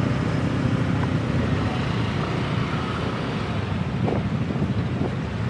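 Wind buffeting the microphone on a moving motorbike, with the bike's engine and the surrounding road traffic running underneath.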